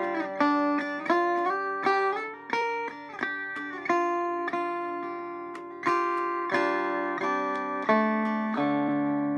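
Electric Vega banjo from about 1936-37, tuned to mountain minor, played as a slow picked accompaniment: plucked notes and chords ring out and decay, some stepping up or down in pitch while they sound.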